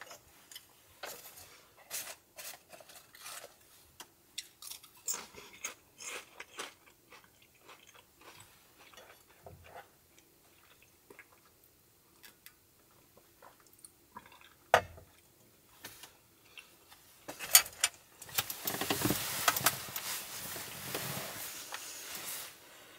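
A person crunching and chewing potato chips, with small scattered crunches. One sharp click about fifteen seconds in, and a longer stretch of rustling near the end.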